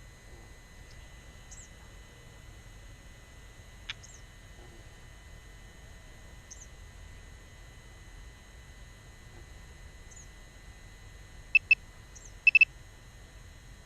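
A small bird repeats a short high chirp every second or two over a low background hum. Near the end, sharp electronic beeps, two and then three in quick succession, are the loudest sounds, typical of a drone remote controller's warning beeps.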